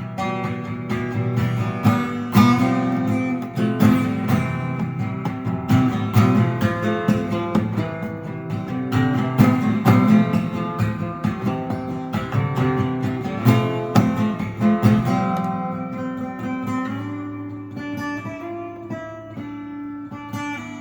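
Acoustic guitar playing an instrumental intro, strummed chords with picked notes, growing quieter over the last few seconds.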